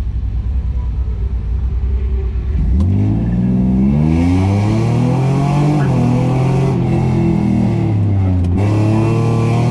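Car engine idling, then accelerating hard off the start line at about three seconds in, its pitch climbing steadily; the pitch dips briefly about eight and a half seconds in, then climbs again.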